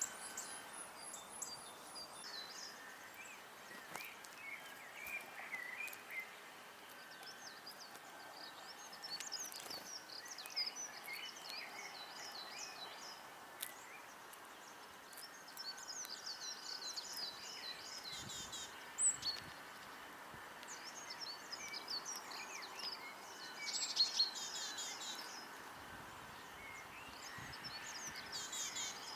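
Several wild songbirds singing and chirping over a faint steady background, with repeated quick, high trilled phrases coming and going throughout.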